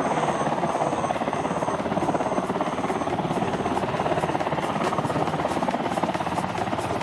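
HH-60 rescue helicopter's rotor chopping overhead, a fast, steady beat of blade slaps.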